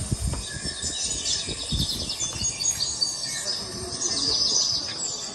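Birds chirping and trilling in repeated short phrases, with a few soft low thuds.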